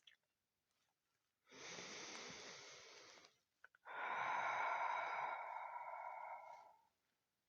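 A person taking two long, deep breaths close to the microphone, the second about three seconds long and louder than the first.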